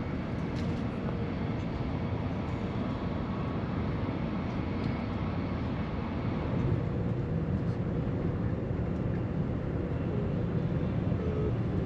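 Steady rumble and rushing noise inside the carriage of a Siemens Velaro TR high-speed train running at around 240 km/h.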